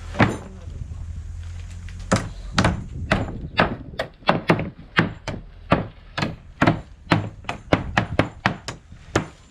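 A single sharp knock, then from about two seconds in a fast run of sharp knocks, about three to four a second and quickening.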